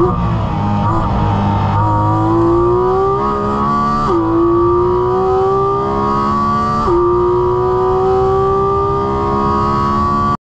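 Porsche 718 Cayman GT4 RS's naturally aspirated 4.0-litre flat-six, heard from inside the cabin, accelerating hard out of a corner onto a straight. Its pitch climbs steadily, falls sharply at a quick upshift about four seconds in and again about seven seconds in, then climbs once more.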